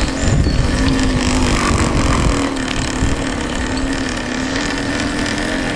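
Small lawn mower engine on a motorized bicycle running at a steady speed, its pitch wavering slightly. A heavy low rumble sits under it for the first two seconds or so.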